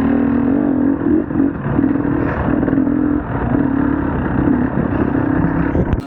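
Enduro motorcycle engine running while ridden, its pitch rising and dipping with the throttle over a rough rumble. It cuts off suddenly near the end.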